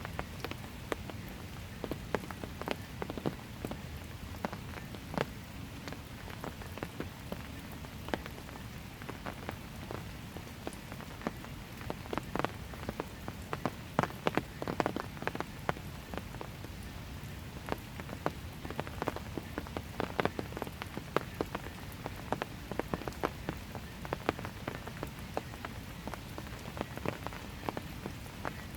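Light steady rain on a paved path: a soft continuous patter with many separate drops ticking close by, some louder than the rest.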